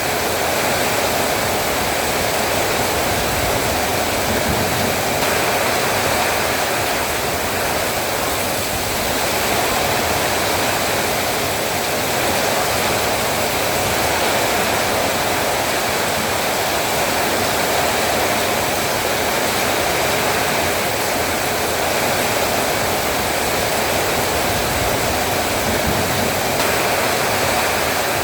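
Heavy rain falling steadily, a dense even hiss of downpour with no breaks.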